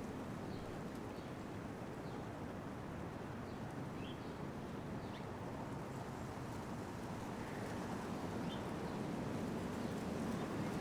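Steady low rush of outdoor background noise, getting a little louder near the end, with faint, scattered short chirps of small birds at a feeder.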